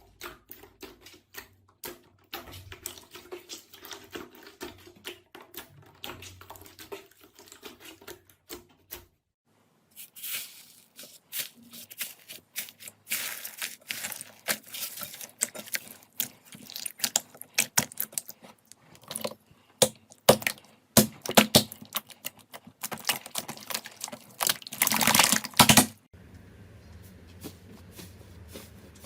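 Hands squeezing and poking slime: rapid crackling and popping clicks. There is a brief pause about nine seconds in, after which the crackling is louder and crisper until near the end.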